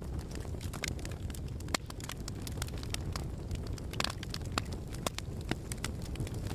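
Wood fire burning in a fireplace: a steady low rumble with frequent sharp crackles and pops, two of them louder, at about 2 and 4 seconds in.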